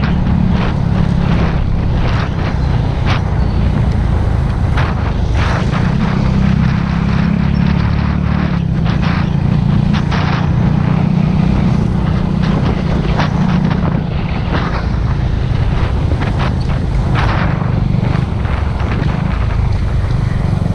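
Motorcycle engine running steadily under way, a constant low drone with wind and road noise over it.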